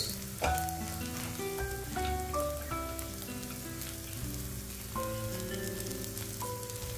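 Dried anchovies and asam kandis sizzling in a little hot oil in a wok as a spatula stirs them, under background music playing a melody of separate notes.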